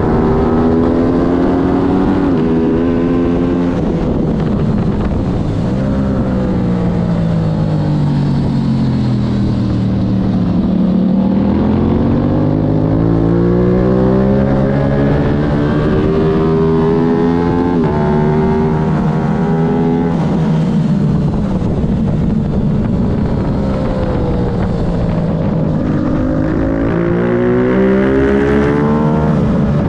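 Aprilia road-racing motorcycle engine at race pace, heard from onboard with wind rush: the engine note drops for about the first ten seconds under braking and downshifts, then climbs through the gears with breaks at the upshifts, drops again for the next corner and climbs once more near the end.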